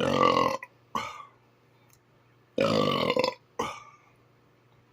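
A man burping loudly twice, about two and a half seconds apart, each long burp followed by a short second sound.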